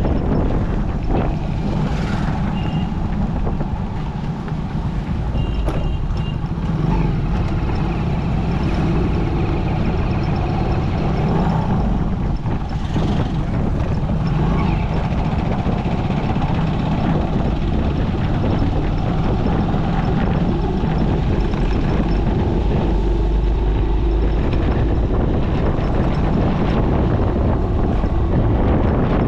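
Motorcycle running steadily at road speed, with wind rushing over the microphone. Two brief high tones sound a few seconds in.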